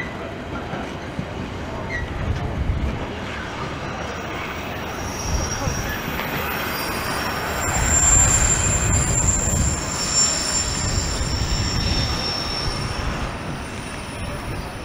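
Freight train wagons rolling past, with a continuous rumble and thumps of the wheels on the track. A high squeal from the wheels comes in about five seconds in and runs for most of the rest.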